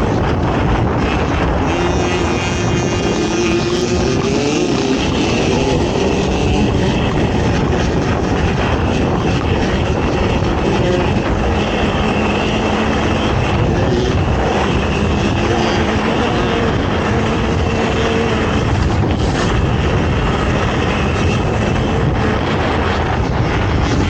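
Racing ATV engine running hard, its pitch rising and falling as the throttle is worked, under a constant rush of noise.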